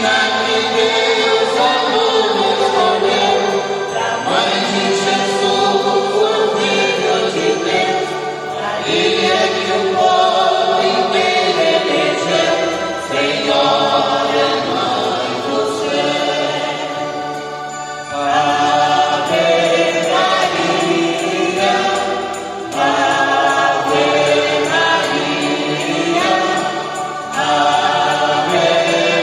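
A choir singing a hymn to Mary in sustained phrases a few seconds long.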